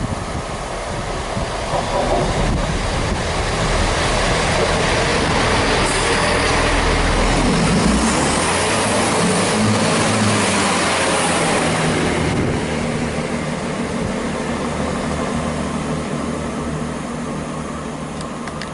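Passenger train passing through the station at speed without stopping. Rumble and wheel-on-rail noise build as it approaches, are loudest with a high rail hiss as the coaches rush by about halfway through, then fade as it goes away.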